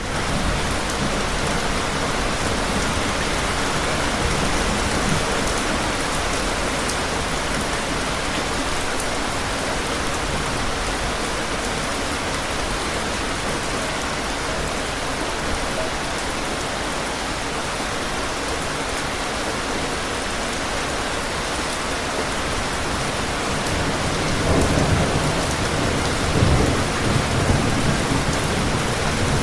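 Steady rain falling hard, an even hiss. Low rumbles of thunder swell up about 24 seconds in and roll on for a few seconds.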